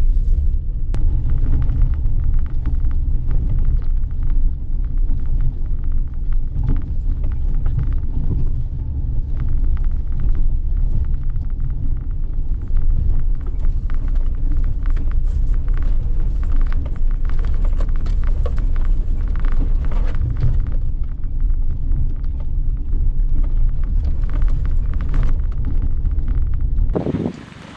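Suzuki Jimny JB23 driving on a rough forest road: a steady low rumble of engine and tyres, with frequent small knocks and rattles from the uneven surface. It cuts off abruptly near the end.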